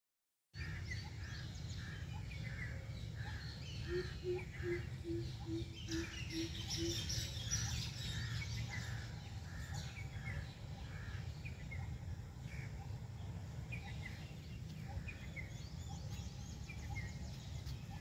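Birds chirping repeatedly over steady low background noise, with a run of about eight low, evenly spaced hoots about four seconds in.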